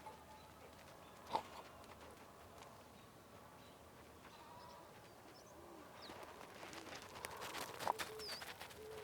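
Several short, soft cooing calls from about halfway in, with a few high thin bird chirps. A sharp click comes about a second and a half in, and a run of clicks and rustling near the end.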